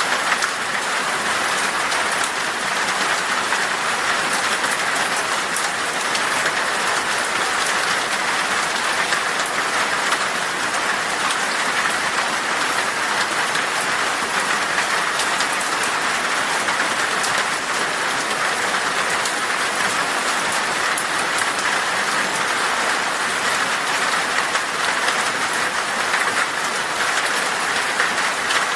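Heavy rain beating steadily on a glass pane, a dense, even patter of many drops with no let-up.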